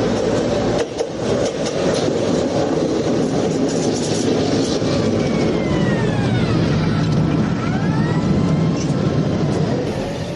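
Train running on rails: a loud, steady rumble and rattle of the wheels and cars. Thin whining tones glide up and down near the middle.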